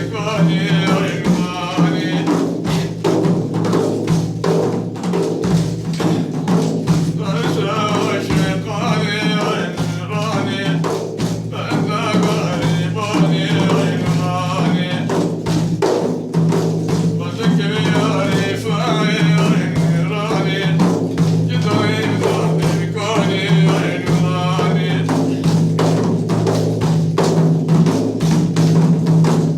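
A man singing a madih, an Islamic praise song, in long wavering phrases over steady drumming and a sustained low drone.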